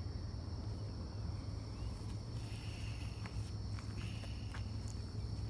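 Crickets trilling steadily in a high chorus over a low, steady rumble, with a few scattered footstep-like clicks.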